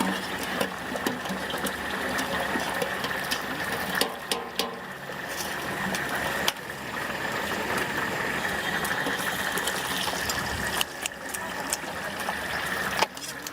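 Stinky tofu deep-frying in hot oil, a steady dense sizzle, with scattered sharp clicks throughout.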